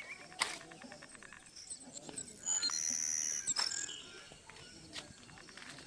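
Wild birds calling, with a high, steady trill for about a second in the middle and a few sharp clicks.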